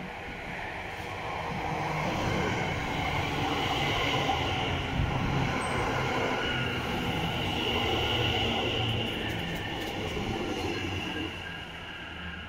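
London Overground Class 710 electric train running along the platform. Its rumble grows as it approaches, is loudest as the coaches pass close by, and eases off near the end, with a steady high whine over the middle.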